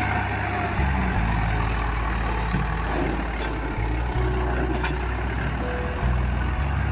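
Swaraj 744FE tractor's three-cylinder diesel engine running, a steady low rumble.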